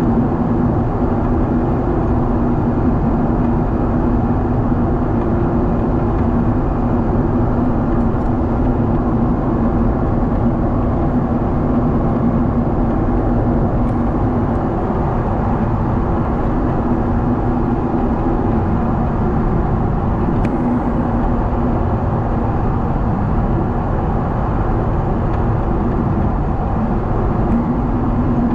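Steady cabin noise of a Boeing 777 in flight, heard inside the cabin: the drone of the jet engines and rushing airflow, with a steady low hum.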